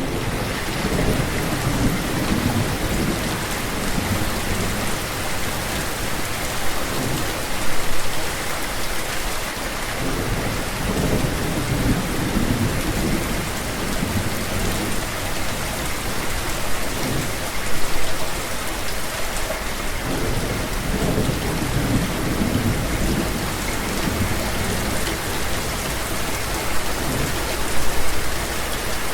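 Steady heavy rain falling, with thunder rumbling low in repeated swells; the loudest rolls come about a quarter of the way in, a little past the middle, and near the end.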